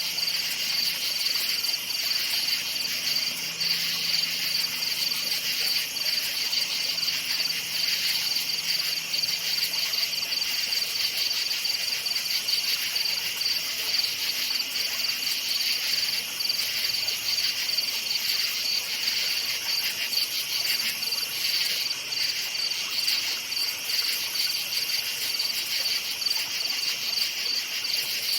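Night chorus of many crickets chirping steadily, a dense high-pitched pulsing trill that does not let up.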